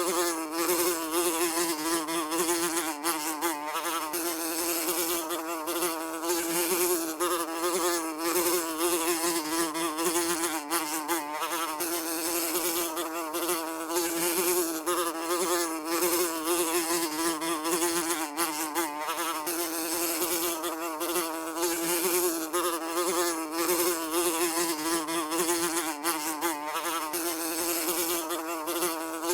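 Housefly buzzing continuously in flight, a steady wing hum with a wavering pitch and constant small dips in loudness.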